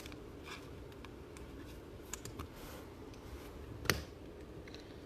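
Faint handling of trading cards: light rustling and small ticks, with one sharper click about four seconds in.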